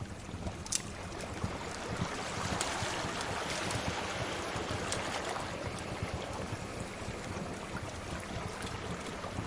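Sea waves washing in, one swell building and easing off over several seconds. Sharp crackles and pops of a wood fire are scattered over it.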